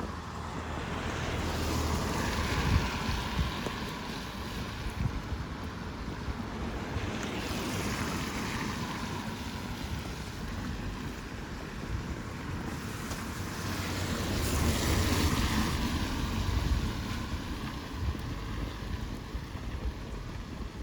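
Vehicles passing one after another on a rain-wet road: three swells of tyre hiss, each rising and fading over a few seconds, with a low wind rumble on the microphone.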